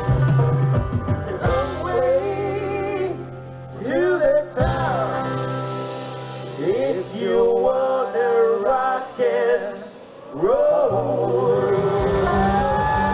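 Band music with male singing, several voices in harmony, briefly dropping away between phrases twice.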